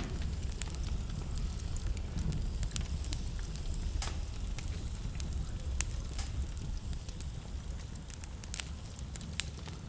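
Wood fire burning in a fireplace: a steady low rumble of flame with frequent irregular sharp crackles and pops, several clustered in quick runs.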